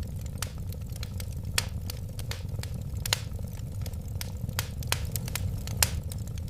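Wood fire crackling, with irregular sharp pops and snaps over a steady low rumble of the flames; the loudest pops come about a second and a half, three, and six seconds in.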